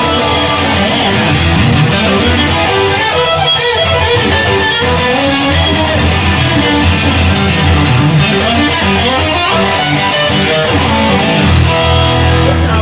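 Instrumental guitar music: a guitar played over a steady bass line, with no singing.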